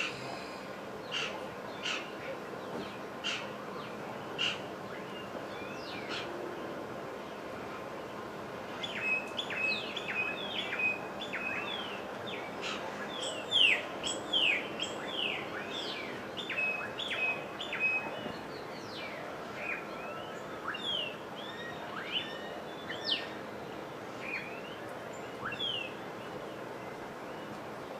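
Wild birds calling: a string of short, sharp calls about one every half second to second, then from about nine seconds in a busy flurry of quick chirps and short whistled notes, all over steady background noise.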